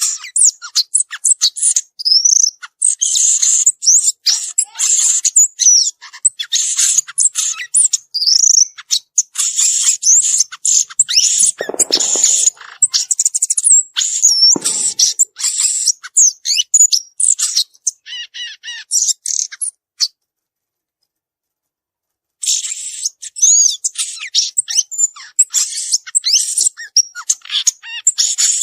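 Violaceous euphonia singing a fast, varied stream of high chirps, twitters and sweeping notes. The song stops completely for about two seconds, then carries on.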